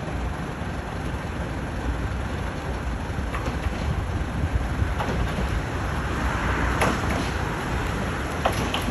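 Steady low rumble of a moving vehicle, with a few sharp clicks in the second half.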